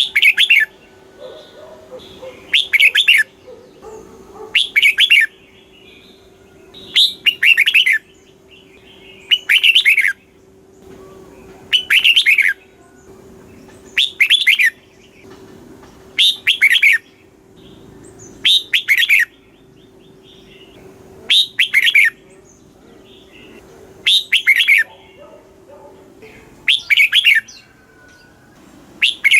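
Red-whiskered bulbul singing, repeating a short phrase of quick notes about every two seconds.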